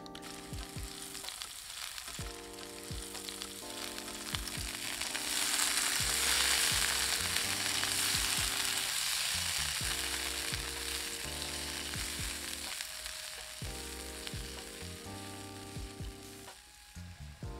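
Diced onion and vegetables sizzling in oil in a nonstick frying pan; the sizzle swells about five seconds in and eases toward the end, over soft background music.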